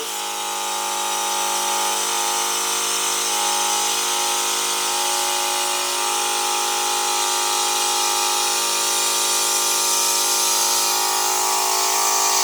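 Electric balloon pump running steadily with a constant motor hum, blowing air through an inflatable beach ball's non-return valve to inflate it.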